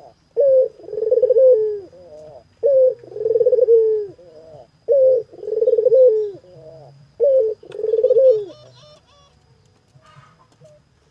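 Puter dove (a collared dove) cooing. Its call is a short note followed by a longer rolling coo, repeated four times at about two-and-a-half-second intervals, then it stops. Faint higher chirps follow near the end.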